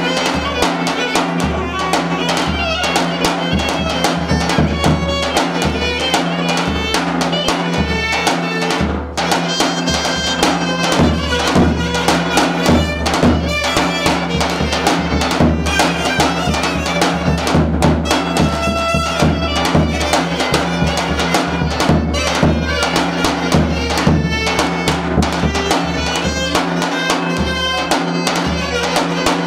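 Traditional Turkish folk dance music played by a band: a held, ornamented melody over steady drumming, with a brief drop in level about nine seconds in.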